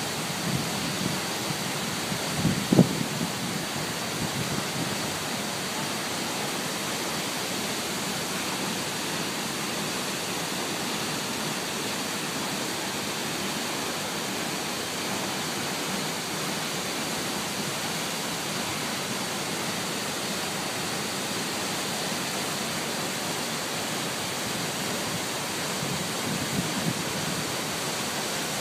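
Thornton Force waterfall: a steady rush of falling water. A few brief low thumps sound about three seconds in and again near the end.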